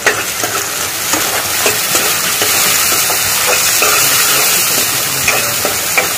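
Chopped tomatoes and onions sizzling in hot oil in a nonstick kadhai, with a steady frying hiss as a metal spoon stirs them, its strokes scraping and tapping the pan.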